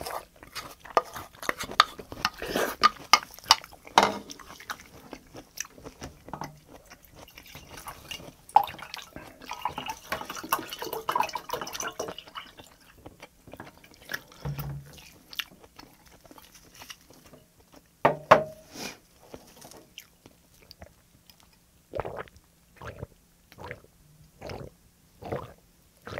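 Close-miked chewing and wet mouth sounds of a person eating green onion kimchi. Near the end come a series of swallows about every 0.7 s as he drinks from a glass.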